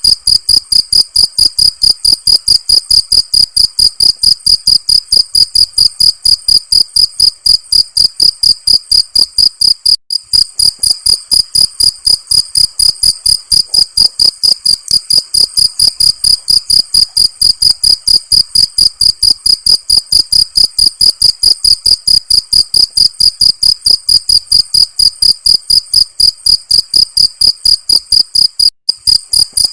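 Cricket chirping in a loud, fast, even rhythm of about four high-pitched chirps a second, with two brief breaks in the pulse train.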